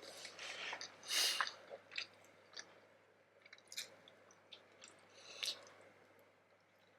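Close-up chewing of vegetable momo dumplings: soft, wet mouth clicks and squishes, with a louder bite or slurp about a second in.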